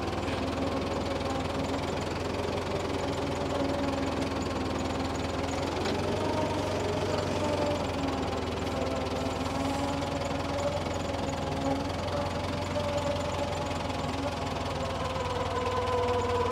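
Tractor engine running steadily under load, with higher tones drifting slowly up and down over it.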